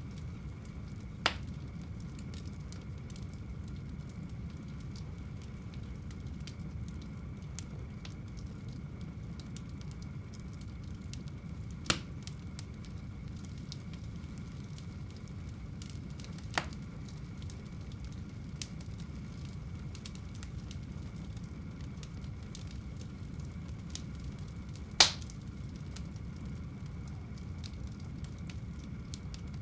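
Wood fire burning in a home fireplace: a steady low rumble with light crackling throughout, broken by four sharp pops at about 1, 12 and 16 seconds in, and a loudest one near the end.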